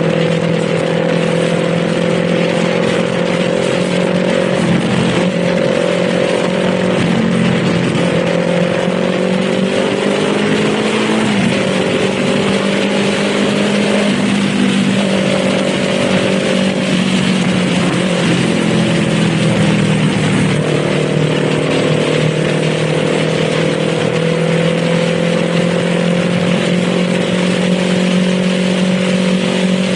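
Kawasaki Z400 parallel-twin engine running under way, its pitch climbing and dropping several times as the rider works the throttle and gears, over a steady rushing noise.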